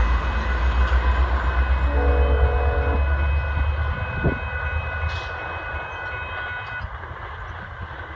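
GO Transit diesel commuter train running past and receding, its low rumble fading away. A horn blast of about a second comes about two seconds in.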